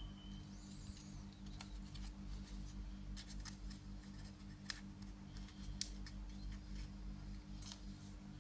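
Origami paper being folded and creased by hand: scattered crisp crackles and ticks over a steady low hum.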